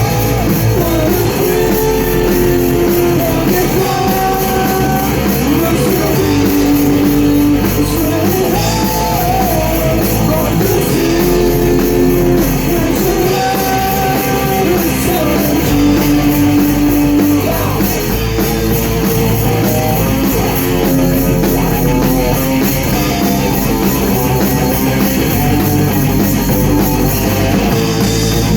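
Rock band playing a song live at rehearsal: electric guitars, bass and a drum kit with constant cymbals, with a singer carrying a melody of held notes over it.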